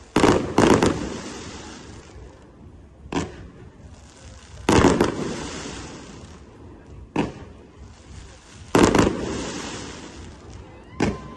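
Aerial fireworks going off in a repeating cycle: a single sharp bang, then about a second and a half later a louder double bang trailing off in a fading crackle. The cycle repeats three times, about every four seconds.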